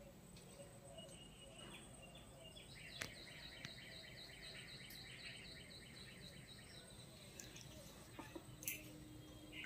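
Faint background with a bird chirping in a quick repeated series for a few seconds, over a low steady hum, with a couple of light clicks.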